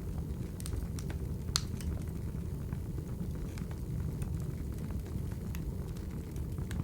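Crackling wood fire: a steady low rumble of burning logs with scattered crackles and pops, the sharpest about one and a half seconds in.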